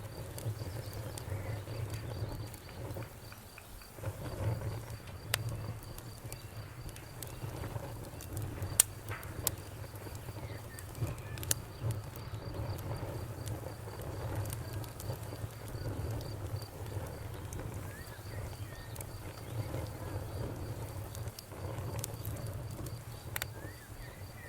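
Campfire crackling, with scattered sharp pops, a few of them loud, over a low flicker of burning wood. A steady pulsing insect chirp runs underneath, with a short break about halfway through.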